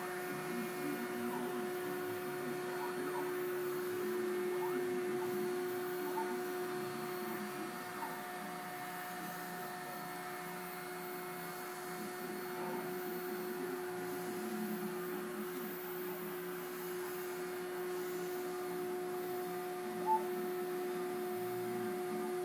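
CNC router spindle running steadily inside a soundproofing enclosure, heard as an even, muffled whine with a faint hum. A single short click about twenty seconds in.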